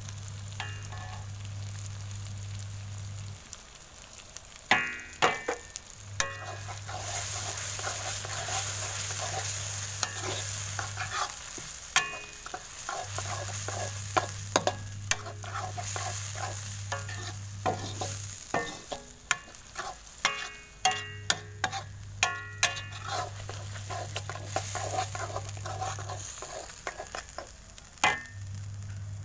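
Masala and freshly added whisked yogurt sizzling in a kadai while a metal spatula stirs it, with frequent sharp scrapes and clacks of the spatula against the pan; the yogurt is being fried into the masala until the oil separates. A low steady hum comes and goes in several stretches.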